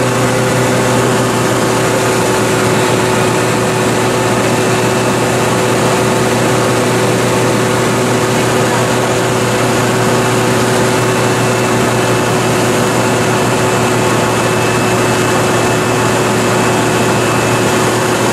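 Steady engine drone of a vehicle, a constant low hum with a few fixed whining tones over an even rushing noise.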